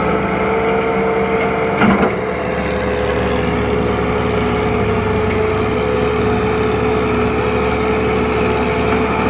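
Tractor engine running steadily with a held tone, and one sharp knock about two seconds in.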